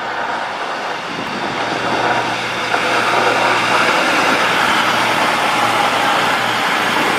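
Train running through the station: its noise builds over the first few seconds and then holds steady, with a low steady hum underneath.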